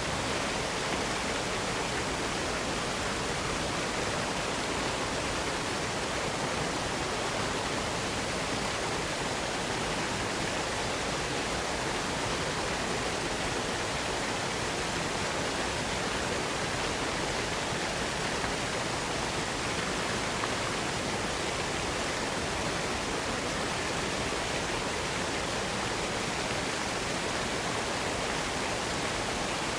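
Waterfall: water falling and splashing in a steady, even rush of noise with no change in loudness.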